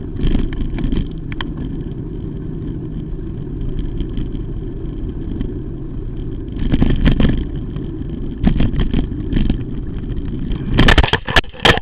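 Car road and engine rumble picked up by a dashcam microphone, with bursts of knocks about seven and nine seconds in and a louder run of sharp bangs near the end.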